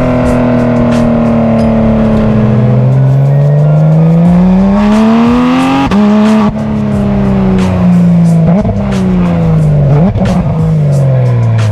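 Porsche 991.2 911 GT3 RS's naturally aspirated flat-six on a Dundon header and muffler exhaust, driven on the road. The engine note falls, then climbs under acceleration until a gear upshift about six seconds in, then eases down with two brief jumps in pitch near the end.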